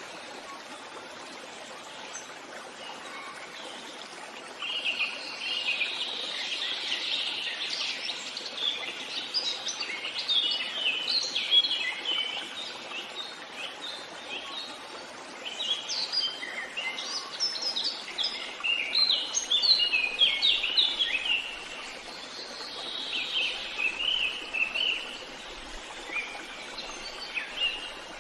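Birds singing in a forest: after a few quiet seconds, bursts of rapid chirps and short trills come and go in phrases with pauses between, over a steady faint hiss.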